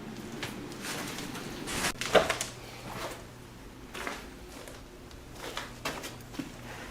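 Scattered rustles and soft knocks from handling and movement in a small room, the loudest about two seconds in.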